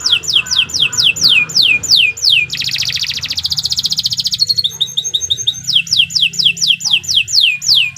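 Domestic canary singing a long, continuous song: a run of quick, high whistled notes that each sweep downward, about four or five a second, broken a third of the way in by a fast buzzing trill lasting about two seconds, after which the sweeping notes resume.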